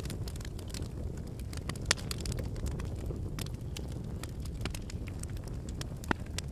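Wood campfire burning with a steady low rumble of flames and scattered sharp crackles and pops of the logs, one pop louder about two seconds in and another near the end.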